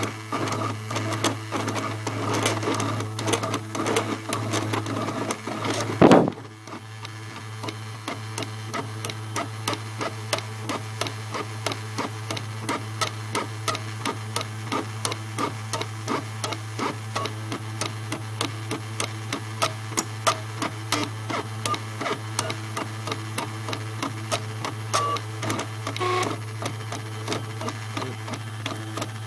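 CNC engraving machine running: a steady hum under busy cutting noise, then a regular ticking of its moves, about two or three ticks a second. A short loud burst comes about six seconds in.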